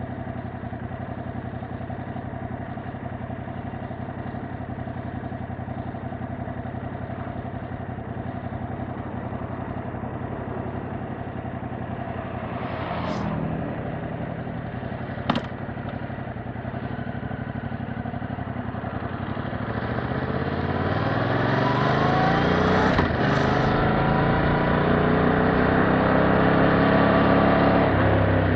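2021 Yamaha MT-07's 689 cc parallel-twin engine on its stock exhaust, idling steadily, with a short blip of the throttle about halfway and a sharp click soon after. Then the engine note climbs and gets louder as the bike pulls away and gathers speed.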